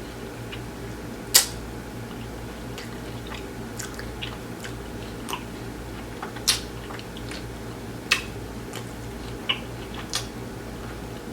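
A person chewing a mouthful of taco close to the microphone, with a scatter of short sharp clicks from the mouth and food, the loudest about a second and a half in and others every second or two.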